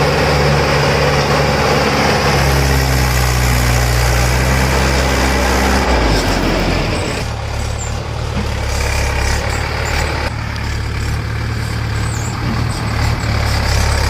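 Heavy diesel engine running at high revs under load, then dropping to a lower, steady idle about six seconds in.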